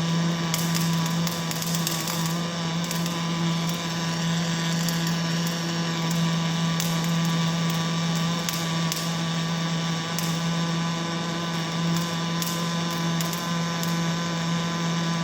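Robotic welding cell running: a steady machine hum with one strong low tone, and faint short clicks now and then.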